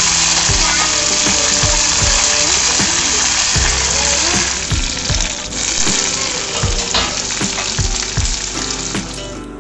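Chicken pieces, curry leaves and garlic sizzling as they fry in oil in a steel kadai, with background music. The sizzle is strongest at first and eases in the second half.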